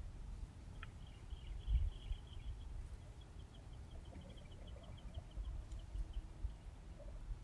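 A songbird gives rapid trills of short, high, evenly spaced notes: a brief run about a second in, then a longer one from about three seconds. Underneath is an uneven low rumble with occasional thumps.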